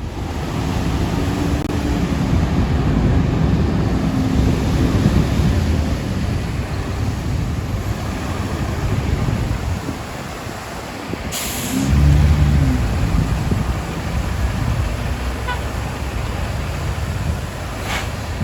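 A fire engine's heavy diesel engine running and pulling away, its pitch rising and falling, with a sharp air-brake hiss about 11 seconds in and a shorter one near the end.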